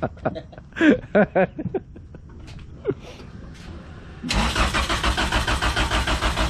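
Honda CRX's B20Z2 engine cranking on the starter, a steady chugging at about five beats a second that starts about four seconds in, after a few seconds of voices. It turns over without firing: the car won't start.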